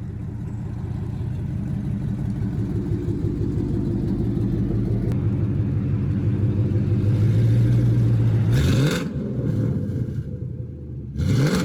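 Ford Mustang engine running through its exhaust with newly fitted mufflers, a steady deep note that slowly builds, then revved sharply twice about three seconds apart near the end. The note is deep and no longer raspy.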